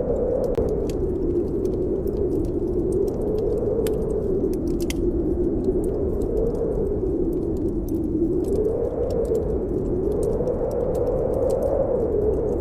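Snowstorm wind howling steadily, its pitch slowly rising and falling, with a wood fire crackling in small, scattered pops.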